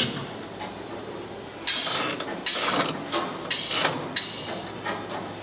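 Four short mechanical rasping, ratchet-like bursts, spaced roughly half a second to a second apart, starting a little under two seconds in, over a steady low hum.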